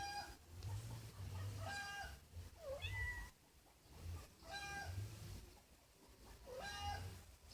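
An animal calling four times, each a short steady pitched note with rich overtones, about two seconds apart. Between the second and third comes a brief call that dips and then rises sharply.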